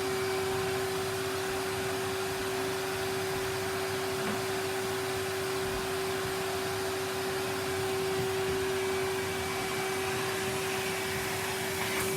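Henry cylinder vacuum cleaner running steadily, a constant rushing of air with a steady motor tone.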